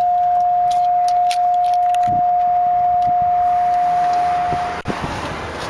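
A car's electronic warning tone, one steady beep held for nearly five seconds and cutting off suddenly with a click, with keys jingling lightly.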